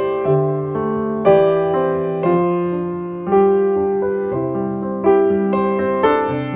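Slow piano music: chords and notes struck and left to ring and fade.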